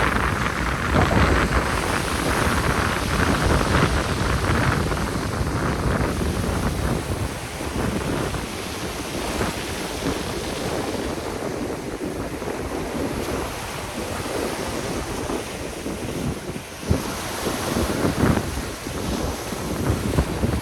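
Sea waves surging and breaking on the shore, with wind buffeting the microphone.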